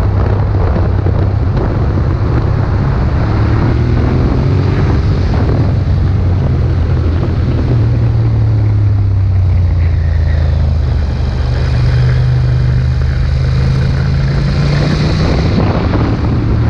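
Ducati Monster 1200's L-twin engine running under way, its note rising and easing off a few times as the throttle is worked.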